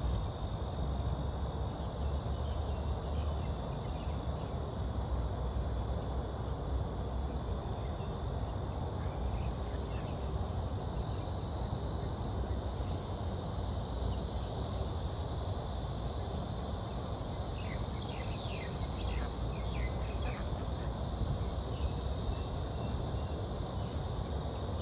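Steady high-pitched chorus of insects, with short falling chirps around a third of the way in and again in a cluster about three-quarters in, over a low rumble.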